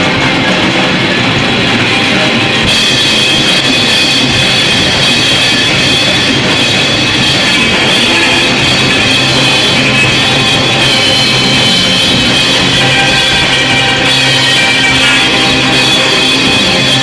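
Loud, dense noise music: a continuous, unbroken wall of sound with a few held tones inside it. The top end fills out about three seconds in and stays that way.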